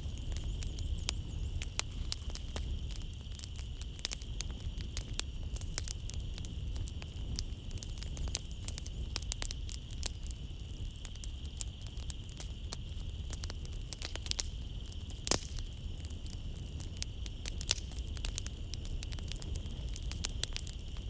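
Wood fire in a fireplace crackling, with frequent irregular pops and snaps over a low rumble, and a steady high chirring of night insects behind it.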